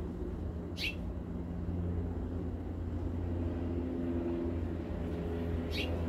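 A bird outside calls twice, each a short, sharp chirp sliding downward, about a second in and near the end. Under it runs a steady low mechanical hum that grows a little louder near the end.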